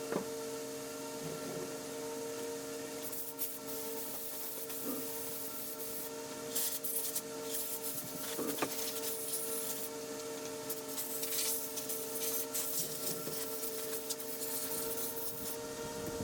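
Irregular scraping and rubbing sounds, heavier in the second half, over a steady hum of several fixed tones.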